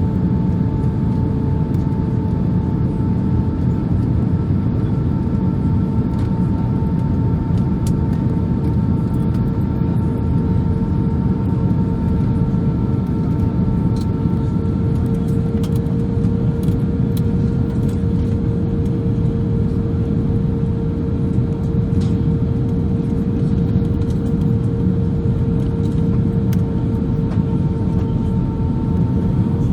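Steady cabin noise inside an Airbus A319-131 airliner in flight: a low rumble of airflow and its IAE V2500 engines, with a steady hum of a few even tones on top and faint light rattles from the cabin.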